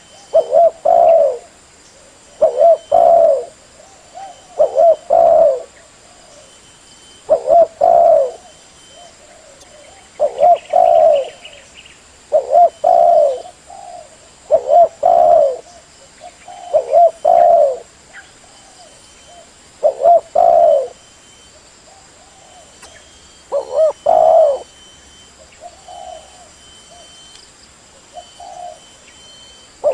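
Spotted dove (tekukur) cooing: a short phrase of a few low coos repeated about every two seconds, with softer coos in between in the second half.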